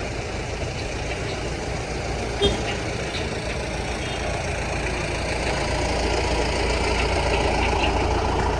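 Street traffic: a vehicle engine running close by, a steady low rumble that grows a little louder in the second half, with one sharp knock about two and a half seconds in.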